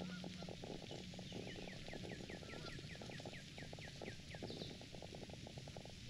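A bird calling a quick run of about a dozen short, falling chirps, about four a second, starting a little over a second in and stopping about three seconds later, over a dense low crackling.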